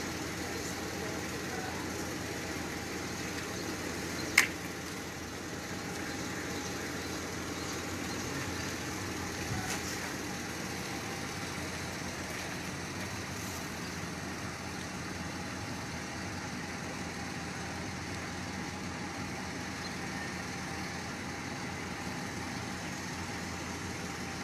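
Steady low mechanical hum, with one sharp click about four seconds in.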